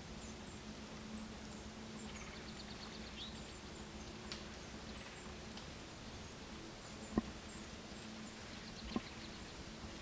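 Small birds calling in the woods: short, high-pitched chirps scattered throughout, with a couple of quick trills. Two sharp knocks sound a little after the middle and near the end, louder than the birds.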